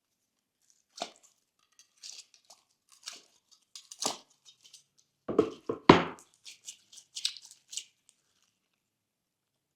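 Thick glossy slime being worked by hand, giving a run of short sticky crackles and squishes, loudest about five to six seconds in.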